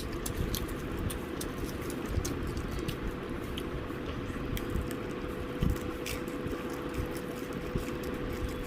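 Someone chewing and biting into KFC fried chicken: many small irregular crackles and clicks over a steady background hiss with a faint steady hum.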